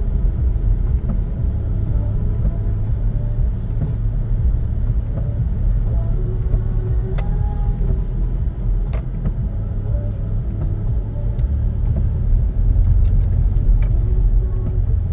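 A car driving on a rain-wet road: a steady low rumble of road and engine noise, with a few faint clicks.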